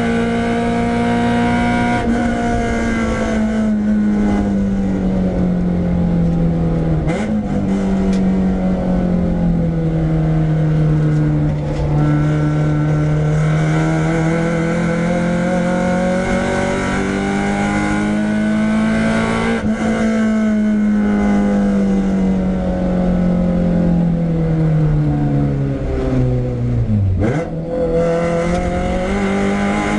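Renault Clio 172's 2.0-litre four-cylinder engine being driven hard on track, its note rising and falling with throttle and gear changes. The pitch steps down about a quarter of the way in and again past halfway, and dips sharply then climbs back near the end.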